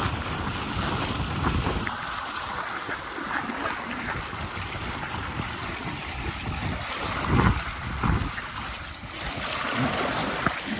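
Fast-flowing river rushing steadily, with wind buffeting the microphone in low gusts.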